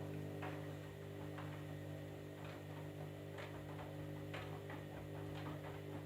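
Candy washing machine running with a steady motor hum, with irregular light ticks over it.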